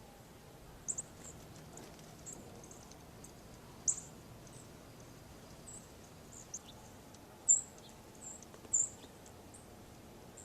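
Small birds chirping: about a dozen short, high-pitched chirps at irregular intervals over a faint steady hiss, the loudest a little past halfway.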